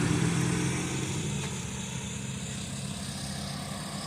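A car engine idling with a steady low rumble. It fades over the first second and a half, then holds at a lower steady level.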